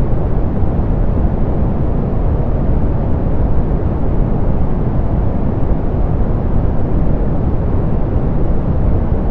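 Steady, softened pink noise: an even, unchanging hiss weighted toward the low end, with the highs rolled off.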